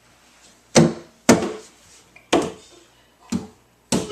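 A child hitting a toy hand drum: five separate, uneven strikes, each ringing briefly and fading.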